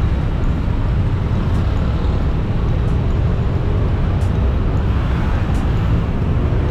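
Steady riding noise from a motorcycle on the move: a continuous low rumble of wind and engine with an even hiss above it.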